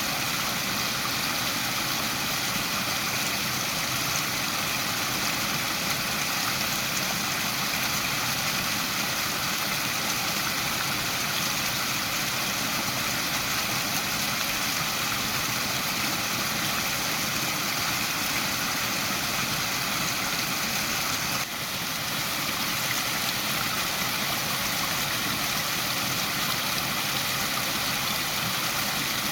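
Waterfall, water falling in a steady, even noise, with a brief dip in level about two-thirds of the way through.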